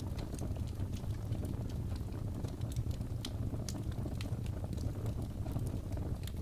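Wood fire crackling in a fireplace: a steady low rumble with irregular sharp pops and snaps, several a second.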